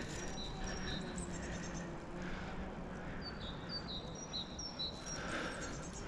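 A small songbird calling in short, high two-note chirps, one run at the start and another from about three seconds in, over soft rustling of a climber moving among bare branches.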